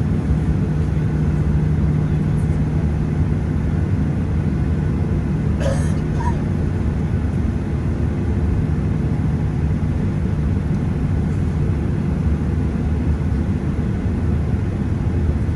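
Steady low rumble inside the cabin of a Boeing 737-800 with its CFM56-7B engines running while taxiing. A steady hum fades out about seven seconds in, and there is one short sharp knock about six seconds in.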